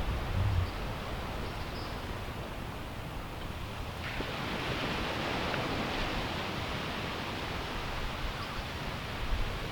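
Steady outdoor noise of wind and sea surf, with wind buffeting the microphone briefly at the start and again near the end. The noise gets brighter about four seconds in.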